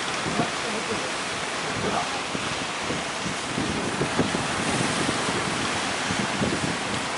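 Strong wind buffeting the microphone over the steady rush of sea waves in rough conditions.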